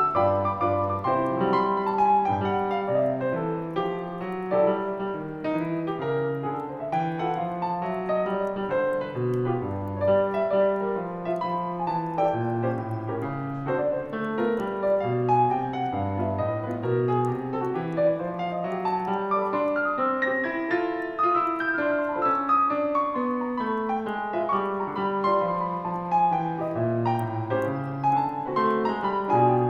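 Solo piano playing a gentle Christmas song, with flowing runs of notes over a moving bass line.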